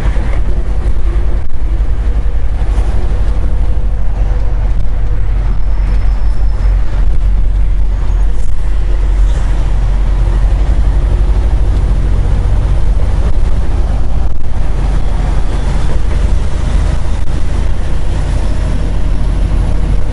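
Steady low rumble of a semi truck's diesel engine and road noise heard inside the cab while driving, with a faint steady hum above it.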